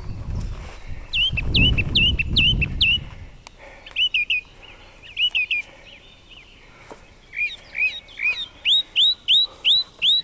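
A songbird singing loud phrases of clear, repeated whistled notes, each phrase a quick run of three to eight of the same note, with short pauses between phrases. A low rumble sits under the first three seconds.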